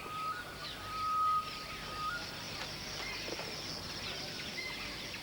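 African riverine woodland ambience: a steady high insect drone, with a long held whistle in the first two seconds that steps up in pitch and back down. Fainter bird chirps follow.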